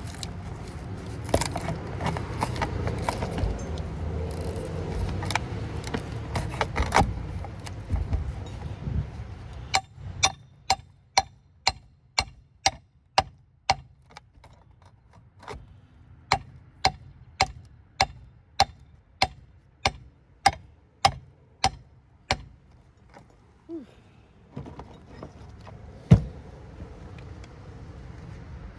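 Metal clattering and scraping, then a long run of sharp metallic strikes about twice a second, each with a short ring, which stops a few seconds before the end.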